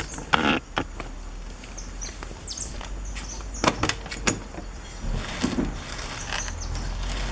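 Scattered knocks, clicks and a few brief high squeaks from a Volkswagen Beetle's front suspension being worked to check for a creak, over a low steady hum.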